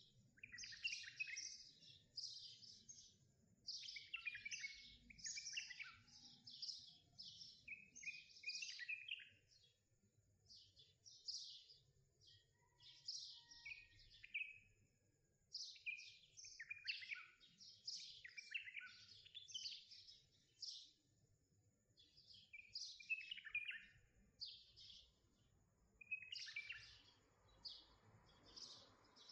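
Small songbirds chirping and singing, a run of short, high, quick notes and trills with brief pauses between phrases.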